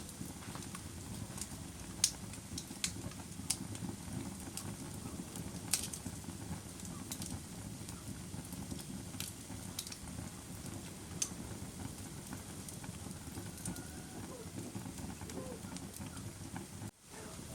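Wood campfire burning, with sharp irregular crackles and pops about every second or two over a steady low rush of flame.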